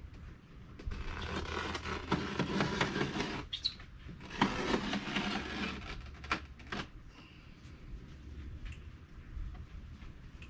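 Two spells of scraping and rubbing on wood, each a couple of seconds long, followed by two short knocks.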